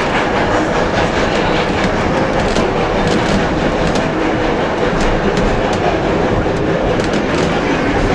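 Heritage railway passenger train riding along the track: a steady rolling rumble with the clatter of the wheels over the rails.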